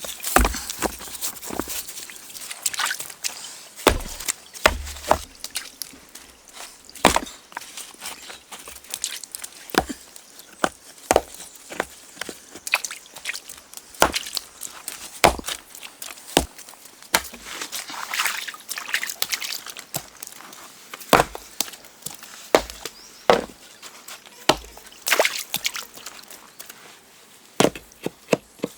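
Wood being chopped by hand with a blade tool: sharp, irregular strikes, roughly one every second or two.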